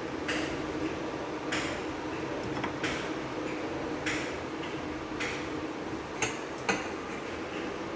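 Frying at a stove: a steady hiss under a series of short clinks and taps of a utensil against the pan, about one a second.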